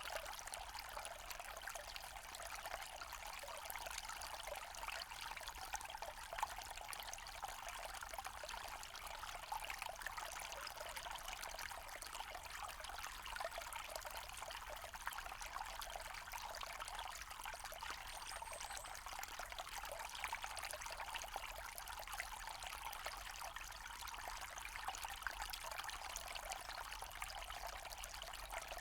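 A small forest stream flowing and trickling over stones in a steady, even babble.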